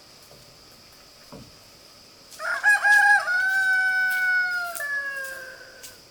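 A rooster crowing once: one long call of about three and a half seconds, starting a little over two seconds in and dropping in pitch at its tail.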